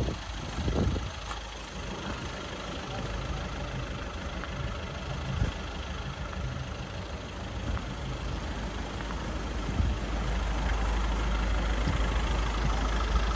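A vehicle engine idling steadily, its low hum growing louder near the end.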